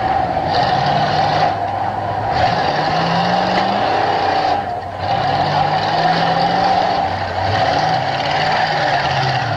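Demolition derby car engines revving, their pitch rising and falling several times as the cars spin their wheels on dirt, over a steady whine.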